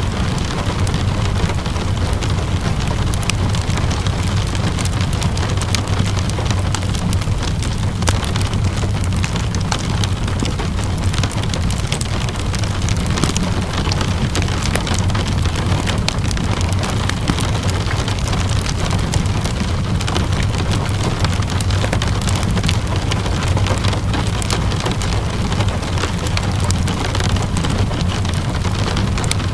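Steady rainfall with a low, even rumble, mixed with scattered sharp crackles and pops of a wood fire burning in a fireplace.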